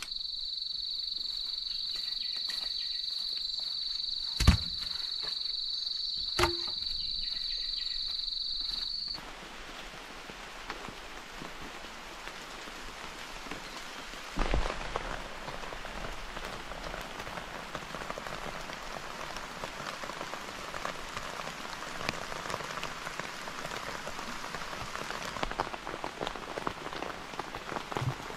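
Rain falling in a forest, a steady patter of drops that grows fuller toward the end. For the first nine seconds a steady high-pitched whine sits over it, with two sharp knocks, and it cuts off suddenly.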